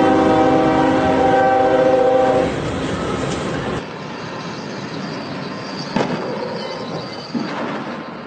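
A train's horn sounding one long steady blast that stops about two and a half seconds in. After it, the rushing noise of the passing train fades slowly, with two sharp clanks near the end.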